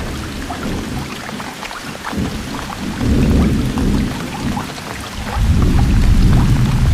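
Steady rain with individual drops ticking, over low rolling thunder that swells about three seconds in and grows louder again near the end.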